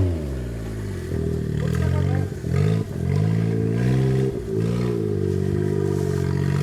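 Suzuki Jimny JA11's engine revving up and down repeatedly as it is driven, with a couple of brief drops in revs about two and a half seconds in.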